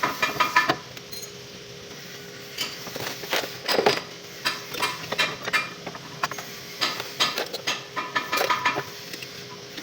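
Metal hand tools and parts clinking against metal in irregular clusters of light taps and knocks.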